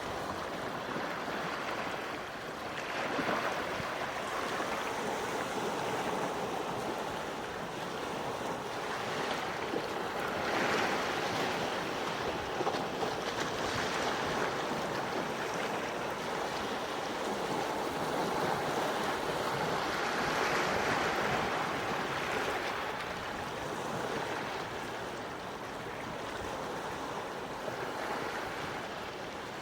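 Quiet sea waves washing onto the shore: a steady rush of surf that swells and eases in slow, irregular surges.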